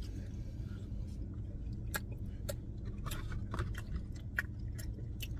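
A person chewing a soft, chewy mochi donut, with scattered small wet mouth clicks over a steady low hum.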